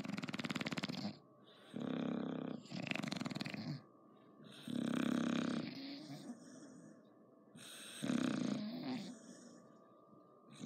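Bulldog snoring in its sleep, a loud snore every two to three seconds with quieter gaps between breaths.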